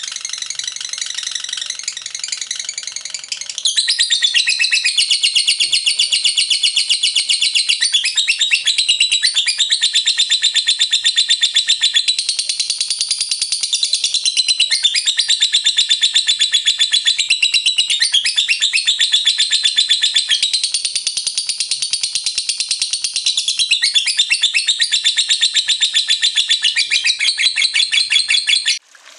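Lovebird singing a long unbroken ngekek: a rapid, high-pitched chattering trill that gets louder about four seconds in and cuts off suddenly at the very end.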